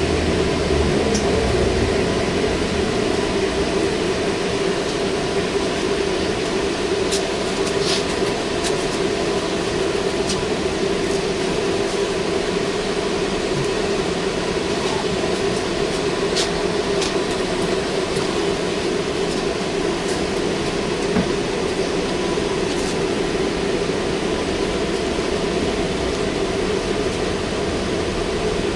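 Interior running noise of a VMZ-5298.01 trolleybus: a steady hum with road noise and a few scattered light clicks and rattles.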